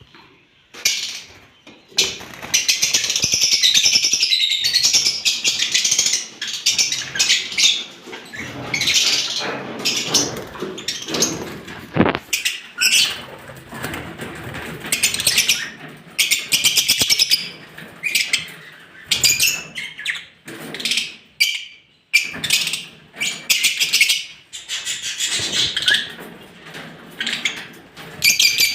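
A colony of lovebirds chattering, with many shrill overlapping chirps that come in bursts with short lulls between them.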